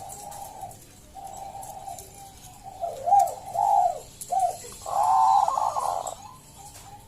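Bangkok-type perkutut (zebra dove) singing a series of rippling coo notes. The notes are softer at first, louder about three seconds in, and the loudest and longest comes about five seconds in.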